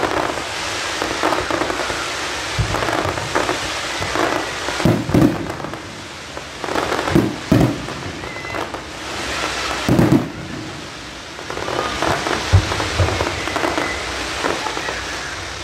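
Fireworks going off, a dense, continuous crackle with louder bangs every couple of seconds.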